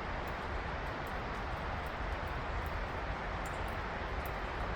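Steady outdoor background: an even low rumble with a broad hiss over it and a few faint ticks, keeping the same level throughout.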